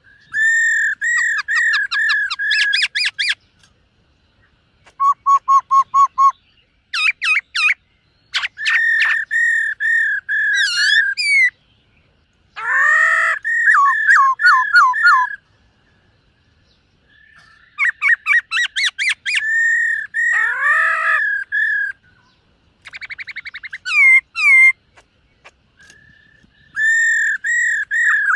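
Black-throated laughingthrush singing: loud whistled phrases of quickly repeated notes with some rising and falling slurs, in bouts of one to three seconds separated by short pauses.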